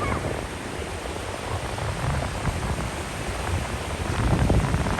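Ocean surf washing steadily on the shore, a hissing rush with a low rumble of wind on the microphone, swelling a little near the end.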